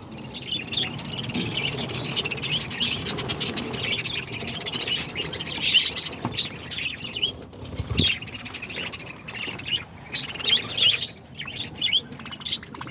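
A flock of parakeets (budgerigars) chattering continuously, many quick chirps and warbles overlapping. A single short knock sounds about eight seconds in.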